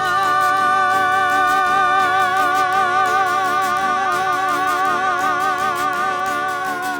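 A singer holds one long high note with a wide vibrato over instrumental backing, the note sliding down as it ends near the close.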